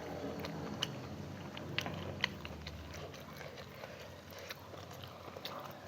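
A person chewing food close to the microphone, with irregular wet mouth clicks and smacks, a few sharper ones in the first half.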